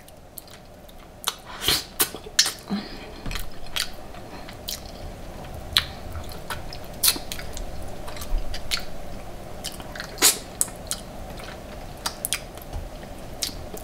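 Close-up mouth eating sounds: chewing and biting, with irregular sharp wet clicks and smacks scattered throughout, over a steady low background hum.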